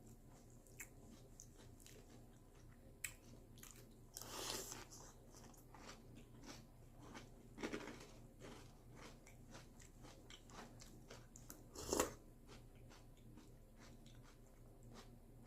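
Person chewing crunchy breakfast cereal: a steady run of small crunches, with louder bites about four, eight and twelve seconds in, the loudest near twelve seconds.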